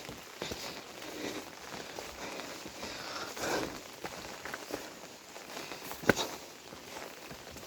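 Footsteps on a path, with scattered light knocks and one sharp click about six seconds in.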